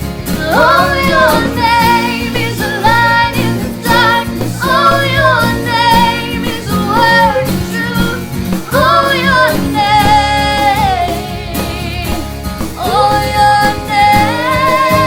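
Worship song sung by a solo voice over instrumental accompaniment, in phrases of about one to two seconds with some long held notes.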